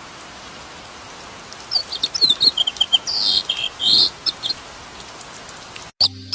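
A bird chirping: a quick run of short, high chirps lasting about three seconds, over a steady hiss. The chirps start a little under two seconds in.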